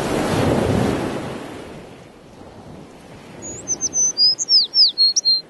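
A rushing noise swells and fades over the first two seconds, then a small bird chirps a quick run of short, high, falling whistled notes near the end.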